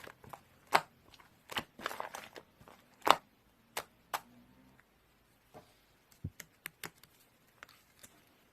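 Irregular clicks, taps and crinkling of something being handled. They are busy for about four seconds, then thin out to a few faint ticks and one dull knock.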